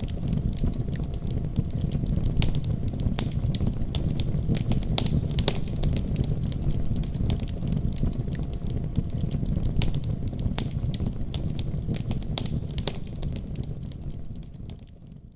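Wood fire burning in a fireplace: a steady low rumble of flames with frequent sharp crackles and pops from the burning wood. The sound fades out over the last second or so.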